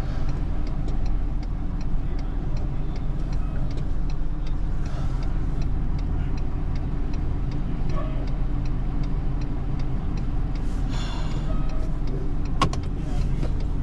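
Truck engine idling steadily, heard from inside the cab, with a flasher relay ticking evenly at about two clicks a second.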